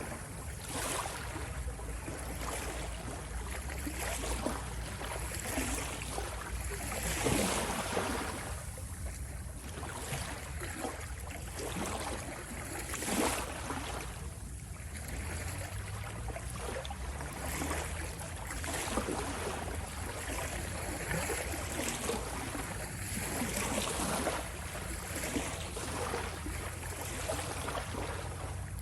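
Ocean waves washing and splashing in a continuous rush, with irregular surges every few seconds over a steady low rumble.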